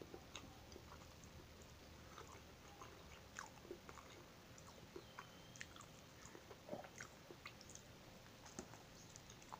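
Faint close-up chewing and biting of buko pie, a coconut custard pie with a pastry crust: scattered short wet clicks and smacks of the mouth, with a fresh bite taken near the end.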